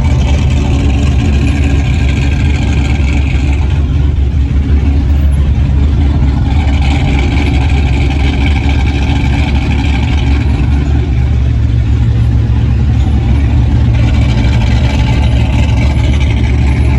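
Car engine running with a deep, steady low rumble, the exhaust note of a hot rod or classic car.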